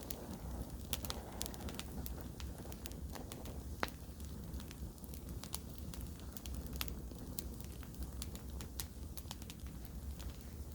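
Wood campfire burning, crackling with frequent sharp pops, the loudest about four seconds in, over a steady low rumble.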